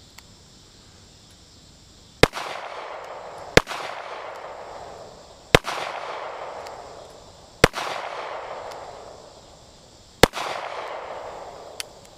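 Five handgun shots at uneven intervals, each followed by a long echo dying away over a second or two.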